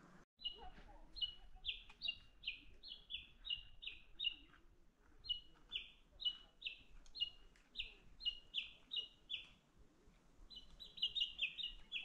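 A songbird singing runs of short, high, downslurred notes, about two a second, in three series with brief pauses between them; the notes come faster near the end.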